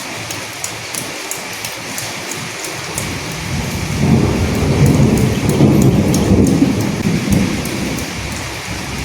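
Steady rain falling, with distinct drops hitting close by. From about three seconds in, a low rumble of thunder swells, is loudest mid-way, and dies away near the end.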